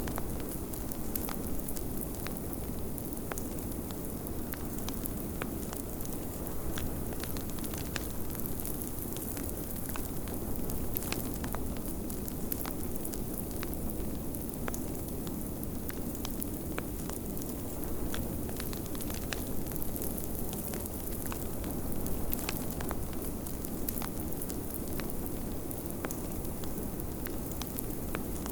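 Wood fire crackling, with frequent small sharp pops, over a steady low rumble of storm wind.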